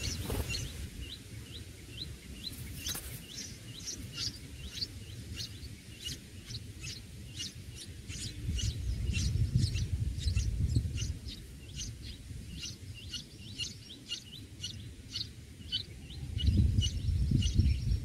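Small birds chirping: a rapid, steady series of short, thin, high chirps, about three a second, with low rumbles swelling in the middle and again near the end.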